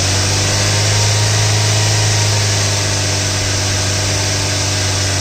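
2017 Toyota Corolla Altis engine held steady at raised revs: an even engine hum with a strong low tone.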